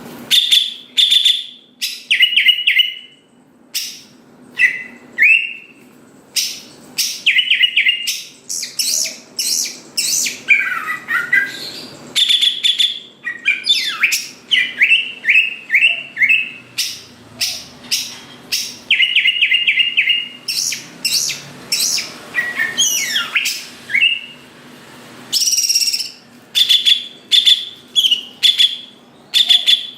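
Cucak ijo (green leafbird) singing in full, continuous song: short bursts of rapid, repeated chattering notes, one after another, mixed with whistled glides and high sweeping notes.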